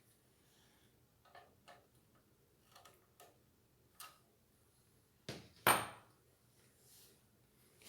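Scattered light clicks and taps from parts and tools being handled during ceiling-fan assembly, with a sharper, louder knock and clatter about five and a half seconds in.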